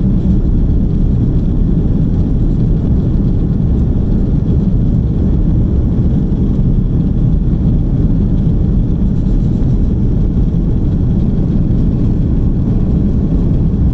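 Steady low rumble inside the cabin of an Airbus A330-300 in flight, the noise of its engines and of air rushing past the fuselage. It holds even throughout, with no change in pitch.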